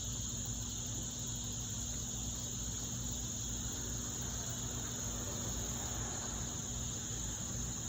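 Insects trilling in a steady, continuous high-pitched chorus, with a low steady hum underneath.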